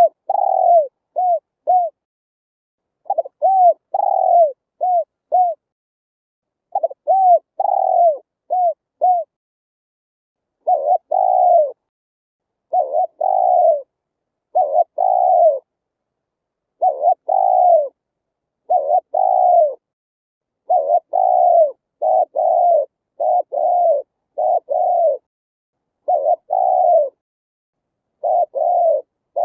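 Spotted dove cooing in repeated phrases of short, arching, mellow coos. At first the phrases come in groups of about four notes, roughly every three and a half seconds. From about ten seconds in they come as a longer, closer run of evenly spaced coos, with dead silence between the notes.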